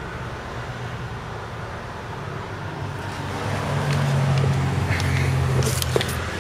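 A vehicle engine running with a steady low hum, swelling louder for a couple of seconds in the middle. A few sharp clicks come near the end.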